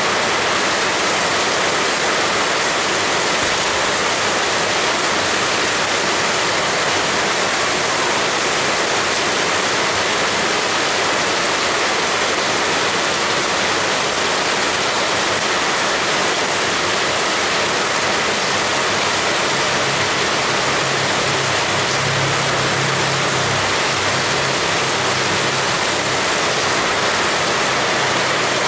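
Heavy rain falling steadily, a dense even hiss with no let-up. A faint low hum sits under it for several seconds in the second half.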